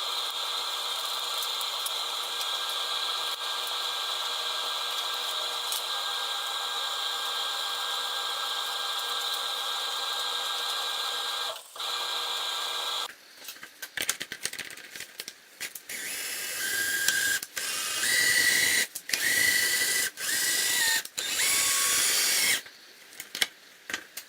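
Small electric motor running steadily with a high whine, stopping briefly about twelve seconds in and cutting out about a second later. Then comes a run of short motor spurts that start and stop, each with a high whining tone.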